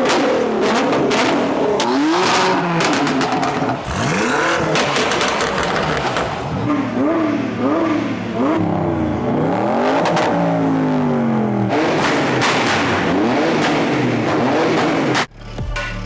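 Several car engines revving hard, their pitch sweeping up and down in overlapping runs, with sharp cracks among them. The sound cuts off suddenly near the end.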